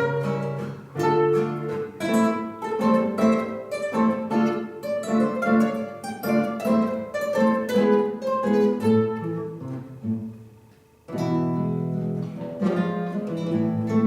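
Plucked-string ensemble playing a waltz in a steady three-beat rhythm. The playing dies away about ten seconds in, then resumes fuller a moment later.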